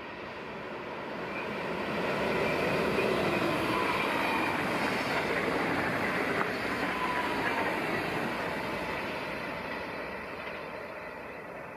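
NS VIRM double-deck electric train passing along the track. Its running noise swells to a peak a few seconds in and fades as it draws away, with a faint whine above it.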